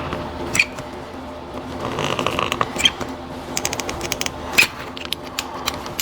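Caulking gun squeezed to lay a bead of liquid flashing: sharp clicks from the trigger and plunger, with a quick ratcheting run of clicks a little past halfway.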